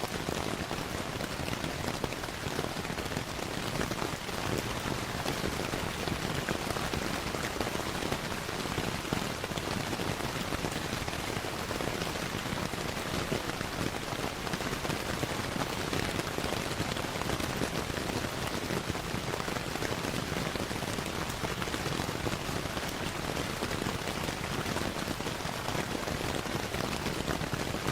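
Steady rain falling, an even hiss with dense fine patter that holds unchanged throughout, blended with the crackle of a fireplace.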